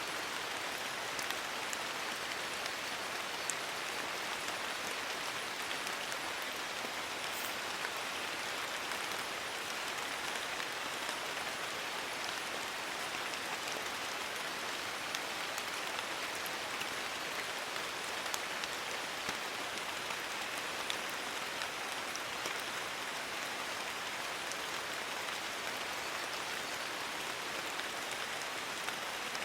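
Steady rain pattering on forest leaves, an even hiss with scattered individual drops ticking through it.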